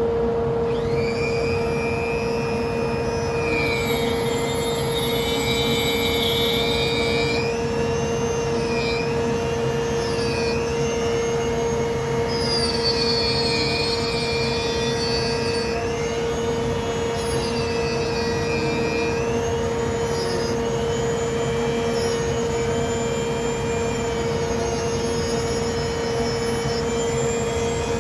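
Handheld rotary tool (Dremel) with a 5/16 carving bit cutting into wood: a steady high whine, with higher tones dipping and rising every few seconds as the bit is worked along the outline.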